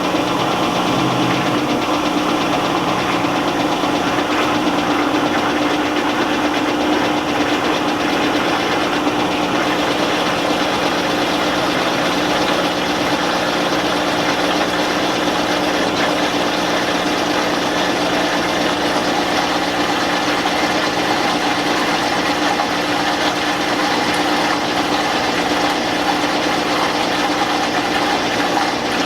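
Admiral belt-drive top-load washing machine, made by Whirlpool, in its spin: motor, belt drive and drain pump running steadily with a constant hum.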